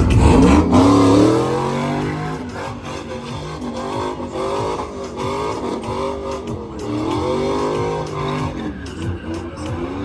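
Truck engine revving hard during a burnout, its pitch rising and falling over and over, with a loud burst at the start.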